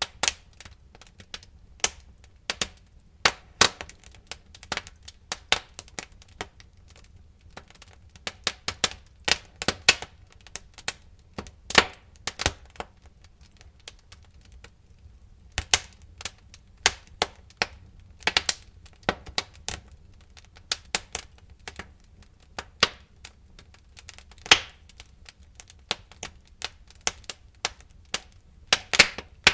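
Campfire wood crackling and popping: irregular sharp snaps, several a second at varying loudness, over a faint low rumble.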